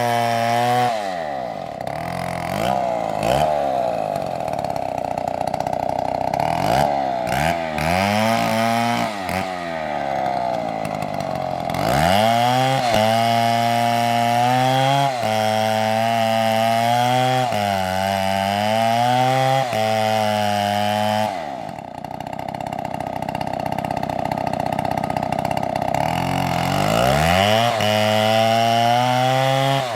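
STIHL two-stroke chainsaw cutting an oak log, the engine held at a high steady pitch for long stretches and dropping to a lower, wavering pitch in between, with rising and falling revs as the throttle changes.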